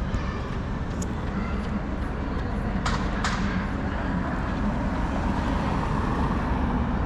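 Steady road traffic rumble, with two sharp clicks close together about three seconds in.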